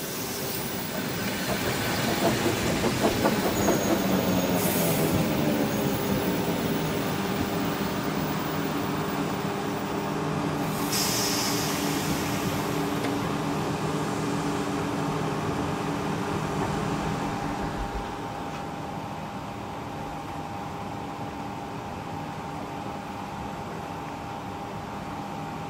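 Train passing close by: its hum sweeps down in pitch as it goes past, then a steady multi-pitched hum and rolling noise carry on and drop in loudness about two-thirds of the way through.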